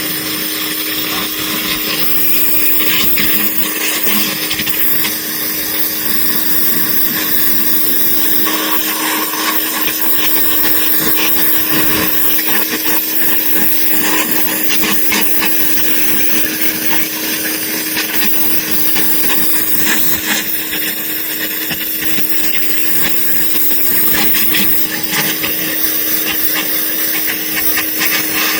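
Handheld power tool running steadily with a constant whine and a rasping, scratchy sound over it.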